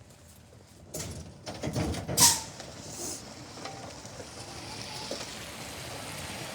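Electric garbage truck drawing near, its running noise building slowly and steadily, with a few knocks and one short, sharp noise about two seconds in.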